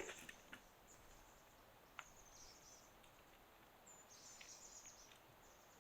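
Near silence with faint, high-pitched bird song: short warbling trills about two seconds in and again around four seconds in, with a soft click about two seconds in.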